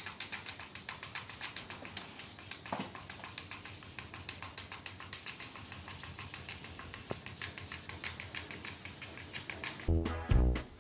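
Rapid light clicking or tapping, many small ticks a second, running evenly until music starts near the end.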